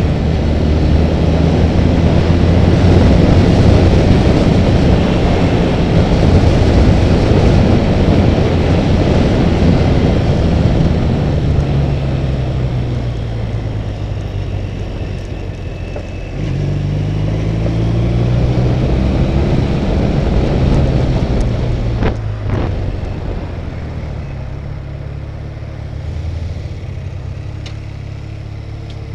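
Honda Rebel motorcycle engine running at road speed under heavy wind rush. The engine note sinks as the bike slows, picks up again about halfway through and climbs, then eases off, with one sharp knock near the end.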